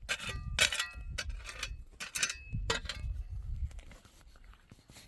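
Metal clanging: about five sharp strikes, each with a short ring, in the first three seconds, then quieter toward the end.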